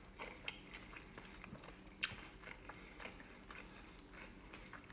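A person chewing a mouthful of a saucy sub sandwich: faint, soft, wet mouth clicks, with one slightly louder click about two seconds in.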